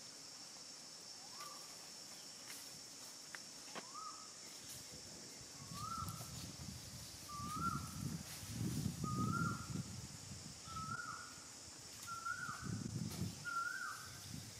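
A bird calling over and over, a short rising-then-falling note about once a second, the notes creeping higher in pitch. Under it runs a steady high insect drone, and from about five seconds in, bursts of low rumble are the loudest sound.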